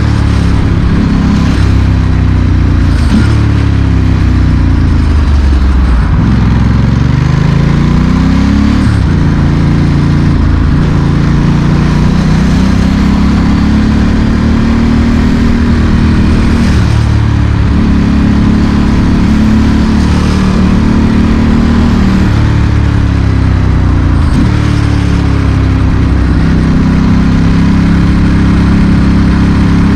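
Ducati Monster S4R's L-twin engine through a straight-through Mivv exhaust, loud and continuous, its note rising under acceleration and dropping off several times in city riding, with sharp breaks in pitch at the gear changes.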